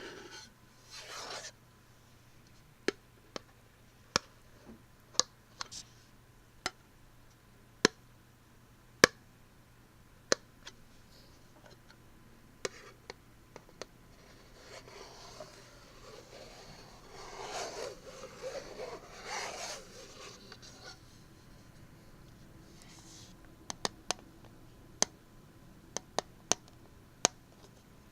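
A Fossil metal tin being tapped and clicked: single sharp taps spaced irregularly, often a second or more apart, with a few seconds of scraping and rubbing against it around the middle.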